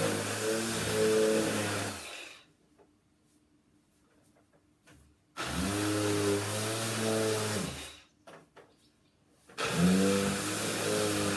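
A small electric motor whirring with a rushing-air hiss, switched off about two seconds in. It is switched on again for a few seconds from about five seconds, and once more near the end, its pitch rising each time it spins up.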